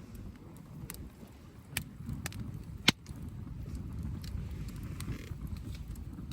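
Campfire wood crackling, with scattered sharp pops, the loudest about three seconds in, over a steady low rumble.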